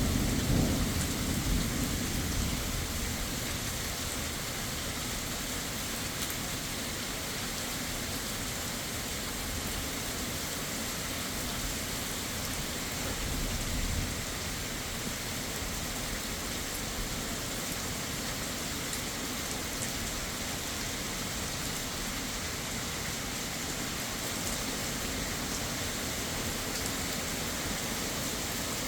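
Steady heavy rain. A low thunder rumble fades out over the first couple of seconds, and a second, weaker rumble swells briefly about halfway through.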